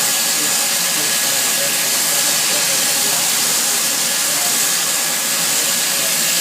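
Steady rushing wind noise on the microphone of a moving Kawasaki KLR 650 motorcycle, an even hiss with no changes.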